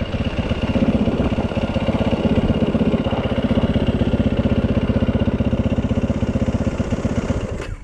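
Yamaha 450 dirt bike's single-cylinder four-stroke engine idling with an even, steady beat, stopping abruptly near the end.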